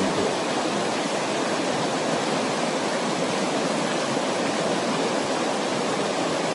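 Steady, even rushing noise with no pitch or rhythm, like heavy rain or falling water, that stops abruptly at the end.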